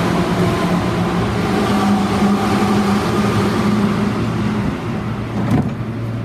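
Train running: a steady mechanical hum and rumble, with a short knock about five and a half seconds in.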